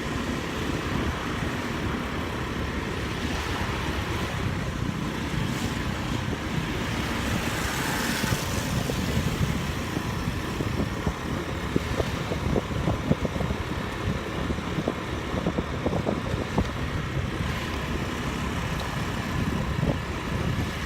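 Steady engine and road noise of a motorbike riding through traffic.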